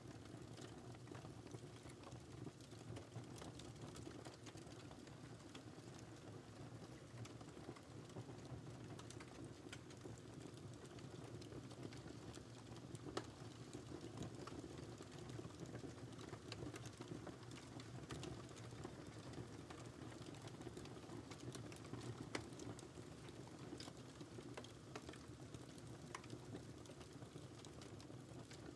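Wood fire burning steadily with a soft low rumble, crackling with many small irregular pops and a few sharper, louder snaps.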